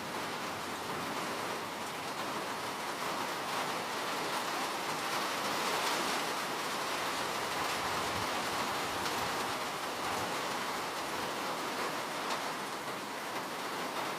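Steady rain: an even, dense hiss with faint individual drops ticking through it.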